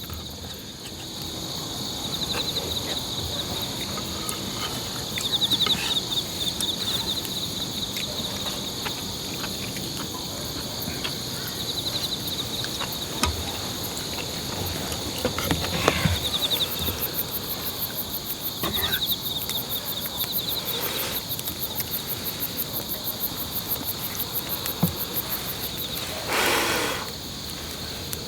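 Insects chirping and trilling in rapid pulses, with a high, fast pulsing trill joining in the second half. Occasional light clicks and knocks sound over them, and a short burst of noise comes near the end.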